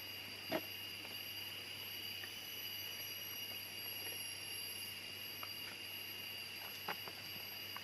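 Rainforest insects droning steadily at several high pitches without a break. There is one sharp click about half a second in and a few fainter clicks near the end.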